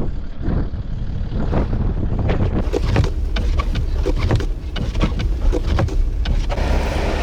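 Blizzard wind buffeting the microphone: a loud, deep, gusty rumble with scattered crackles and knocks.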